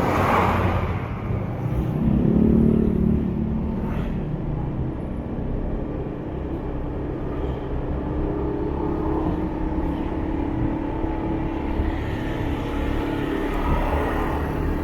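Motorbike engine running steadily on the move through city traffic, with a louder swell about two seconds in.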